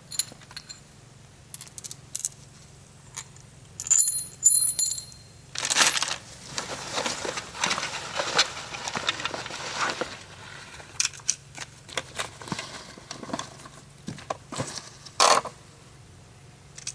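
Scattered knocks and clatter of metal objects being handled, with a cluster of bright metallic clinks about four seconds in.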